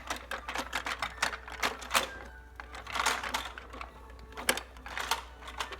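Irregular plastic clicks and rattles as toy train cars are handled and pressed onto the plastic track.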